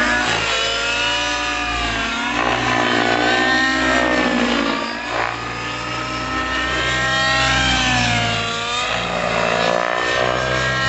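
YS 91SR nitro glow engine of a radio-controlled model running hard, its pitch swinging up and down continuously as it revs and eases off.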